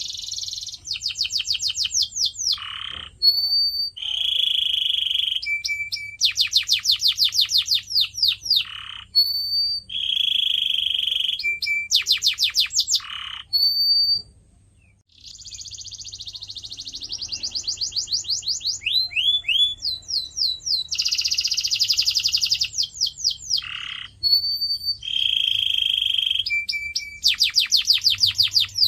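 Domestic canary singing a long, continuous song of rapid trills of repeated notes, buzzy rolls and short high whistles, with a brief pause about halfway through.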